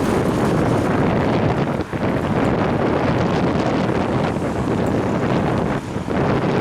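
Wind buffeting the microphone of a head-mounted action camera on a moving bicycle: a loud, steady rushing noise that dips briefly about two seconds in and again near the end.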